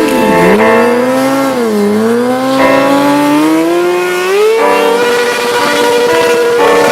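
Motorcycle engine revving: its pitch drops twice, climbs smoothly as it accelerates, then holds steady at high revs.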